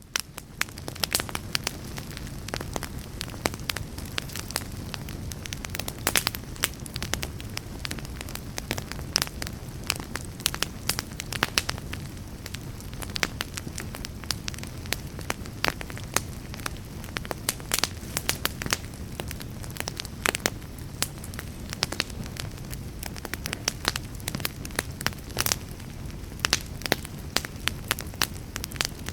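Wood fire burning in a fireplace: a steady low rumble with frequent irregular crackles and pops of burning logs.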